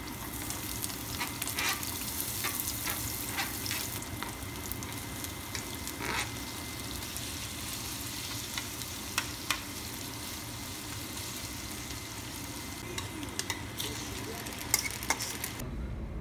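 Onion, garlic, shrimp and bacon sizzling in oil in a non-stick frying pan while being stirred, with scattered clicks and scrapes of the utensil against the pan. The sizzle is strongest in the first few seconds and cuts off suddenly near the end.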